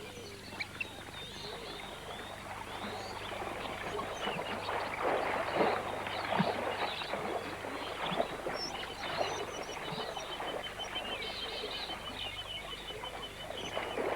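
A dense chorus of overlapping animal and bird calls, with a rapid, even trill running through the second half.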